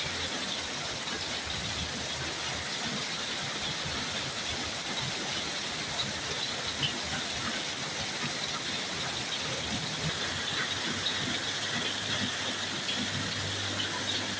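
Steady hiss of heavy rainfall, with faint scattered ticks. A low engine hum comes in near the end.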